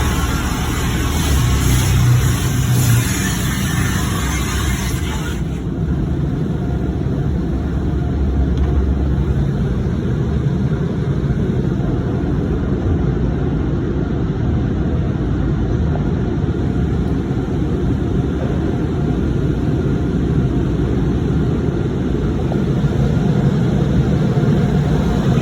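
Automatic car wash heard from inside the car: a loud, broad hiss that cuts off suddenly about five seconds in, then a steady low rumble.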